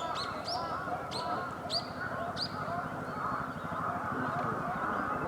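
A bird gives a run of sharp, high chirps that sweep upward. There are about six in the first two and a half seconds, over a dense, busy background of many lower bird calls.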